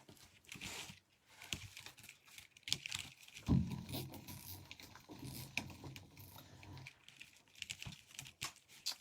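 Deco mesh being scrunched and handled, with crinkling rustles and small clicks. A low hum runs for a few seconds from about three and a half seconds in.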